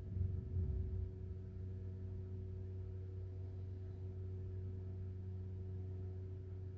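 A steady low hum, with a brief low rumble in the first second.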